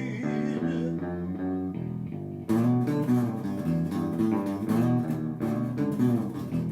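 Instrumental break of a song, with bass and guitar playing a riff between sung verses. The band comes in fuller and louder about two and a half seconds in, with sharp struck or strummed accents.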